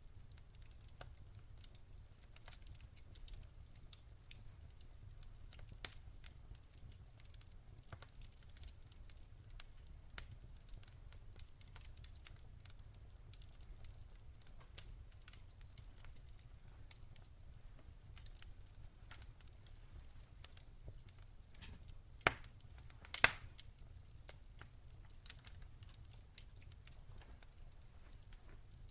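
Campfire crackling: scattered small pops and snaps from burning wood over a faint low rumble, with two louder pops near the end.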